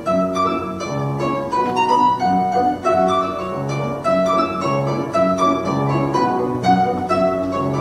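Instrumental duet on plucked string instruments: a melody played over a steady, evenly repeating bass accompaniment.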